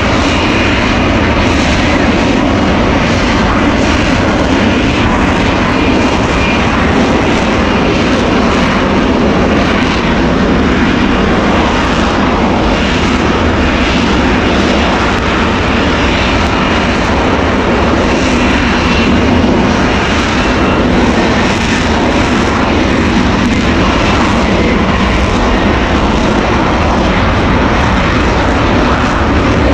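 Aircraft engine running loudly and steadily.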